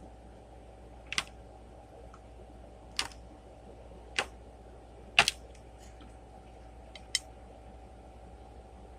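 About five sharp, brief clicks while eating, spaced unevenly, the loudest a little after the halfway point, over a faint steady hum.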